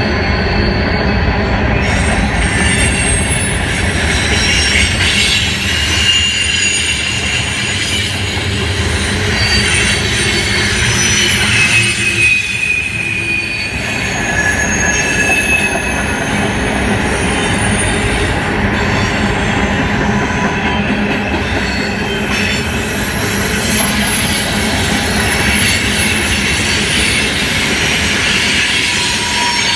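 Freight cars of a long CSX manifest train rolling past: a steady rumble and clatter of wheels on rail, with flange squeal heard as several high tones sliding in pitch.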